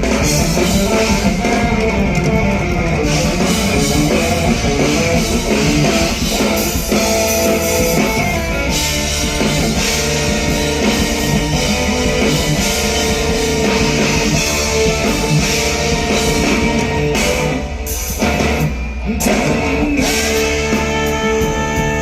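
Live rock band playing an instrumental passage, with guitar over a drum kit and bass.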